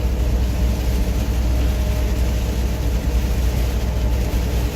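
Cab of a heavy truck driving at highway speed in heavy rain: a steady low engine and road drone under an even hiss of rain and tyres throwing water off the wet road.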